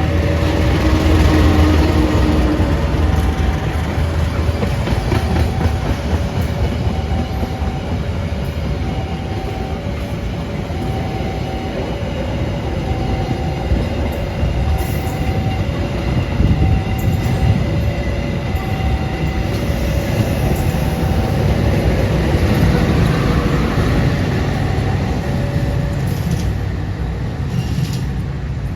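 A train passing close by, its wheels rumbling over the rails. A level-crossing warning alarm sounds throughout, alternating a high and a low tone about once a second.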